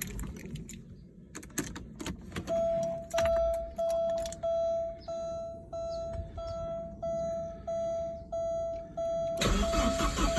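Porsche 944 Turbo being cold started: a few clicks, then a dashboard warning chime beeping steadily about one and a half times a second. Near the end the starter begins cranking the engine.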